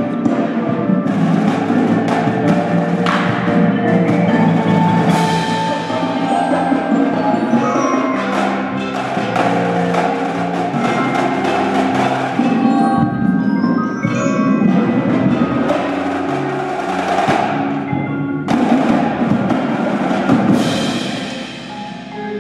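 Indoor drumline playing: keyboard percussion such as marimbas and glockenspiel holding a melody over snare and drum hits, loud throughout with sharp accented strikes, easing off near the end.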